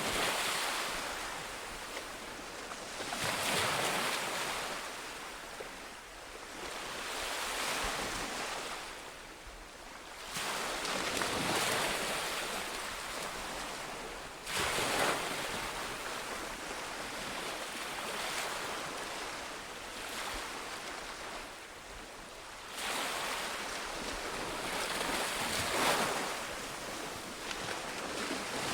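Sea waves breaking on a shore, each wave rising in a rush of surf and then washing back, a new swell every few seconds.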